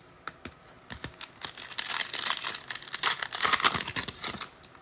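A foil trading-card pack being torn open and crinkled by hand, a dense run of crackling from about a second and a half in until near the end, after a few light clicks.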